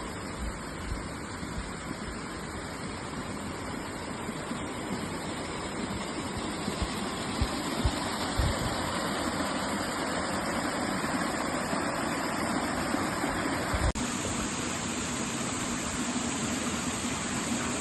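Steady rush of a waterfall, with a few short low thumps. The character of the rush changes abruptly about 14 seconds in.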